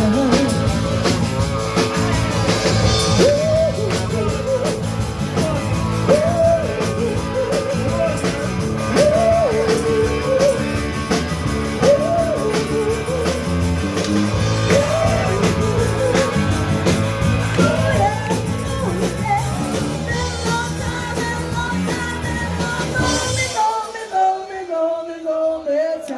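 A live blues-rock band playing with a singer, a steady drum beat and a heavy bass line. Near the end the drums and bass stop, leaving a few held notes.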